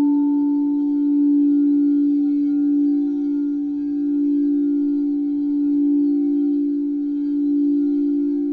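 Crystal singing bowls ringing together: a strong, steady low tone with fainter higher tones above it, the sound slowly swelling and ebbing in a wavering beat. A higher tone from a fresh strike fades away over the first few seconds.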